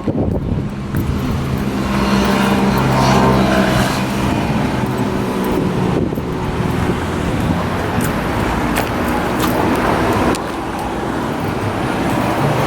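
A car running steadily, with engine and road noise throughout.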